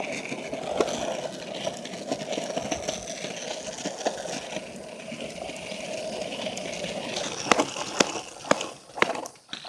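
Rustling and scraping of someone walking through brush on a woodland trail, with a scatter of small clicks and several sharp knocks or snaps near the end.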